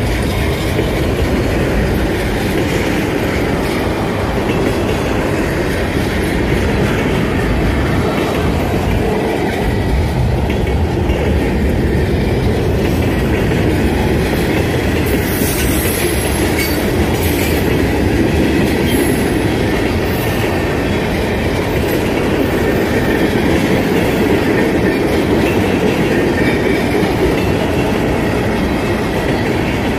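CSX mixed freight train's cars rolling steadily past, a continuous rumble with the clickety-clack of wheels over rail joints. A few short high-pitched wheel squeals come about halfway through.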